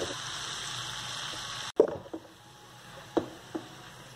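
A spatula stirs chopped spinach and potatoes in a kadhai of sizzling oil. A steady frying sizzle cuts off suddenly a little before halfway, then quieter stirring follows with a few sharp scrapes of the spatula against the pan.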